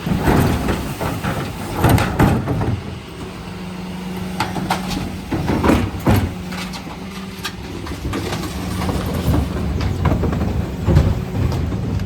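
Mercedes Econic refuse truck with a Faun Variopress body at work: a steady hum sets in about three seconds in, with scattered knocks and clatters throughout.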